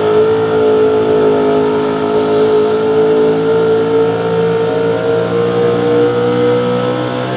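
Small-block V8 engine of a 4x4 pulling truck held at high revs under load, its pitch climbing slowly and steadily.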